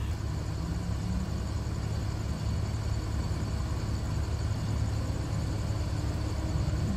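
Car engine idling: a steady low rumble with no change.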